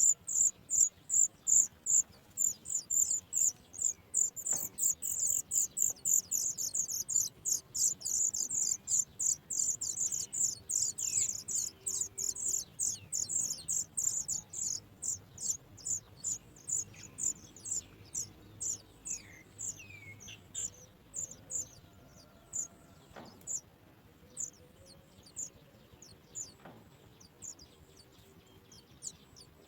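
Sooty chat nestlings begging: a fast string of thin, high-pitched calls, two or three a second, loud at first and thinning out to sparser, fainter calls about halfway through.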